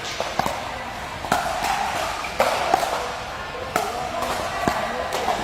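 Ball being struck and bouncing in a doubles rally: a string of sharp hits at uneven spacing, some in quick pairs, over background music.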